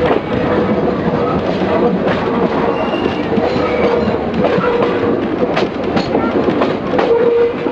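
Heritage train carriage running along the track, heard from its open window: steady wheel-and-rail rumble with clacks over the rail joints and a thin squeal that comes and goes.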